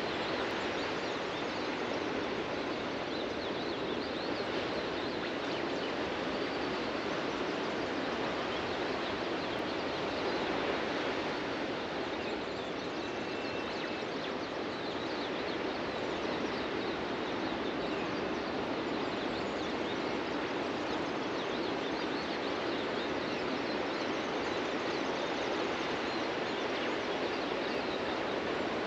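Steady wash of ocean surf on a beach, with faint bird calls over it.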